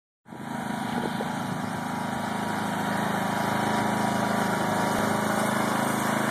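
Tractor engine running steadily, its level creeping up slightly over the first few seconds.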